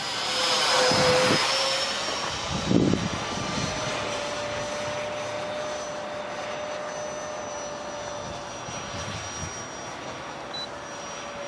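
Whine of an RC jet's Dr Mad 68 mm electric ducted fan with a 10-blade rotor, in flight. It swells to its loudest about a second in as the jet passes close, then settles into a steady, fainter whine. A brief low thump comes near three seconds.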